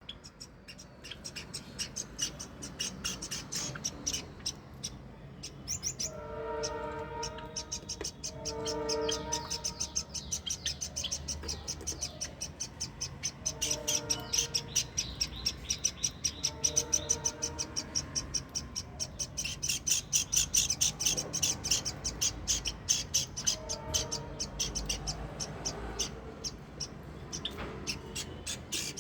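Small pet parrots chirping rapidly and continuously, several high chirps a second, louder in the second half. Longer, lower, drawn-out calls come in every few seconds.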